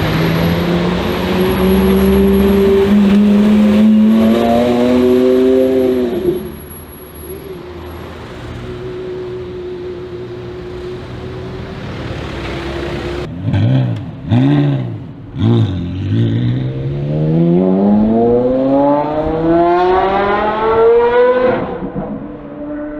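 Porsche Carrera GT's 5.7-litre V10 at high revs, its pitch climbing and then dropping away about six seconds in, followed by quieter steady running. Around the middle it gives three quick throttle blips. Then comes a long climb in revs that cuts off sharply about a second before the end.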